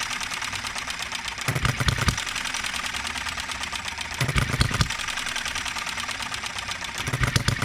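Enjomor 6cc hit-and-miss model engine running: a fast, light mechanical clatter throughout, with heavier low beats about every three seconds as it fires and then coasts. Its ignition timing and governor are still being tuned, and it runs unevenly, stuttering at times.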